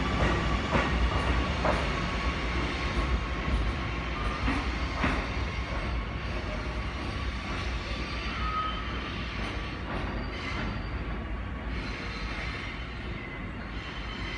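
Electric multiple-unit commuter train (Bombardier MR-90) pulling away, its rumble fading steadily as it moves off down the track, with a few wheel clicks and a faint thin squeal from the wheels.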